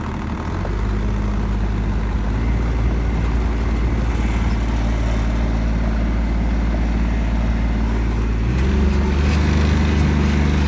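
Tractor engine running steadily, then speeding up with a step up in pitch about eight and a half seconds in.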